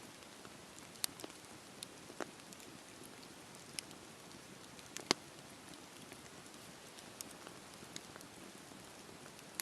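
Campfire burning: a soft steady rush of flame with irregular sharp pops and snaps from the burning wood, the loudest pop about five seconds in.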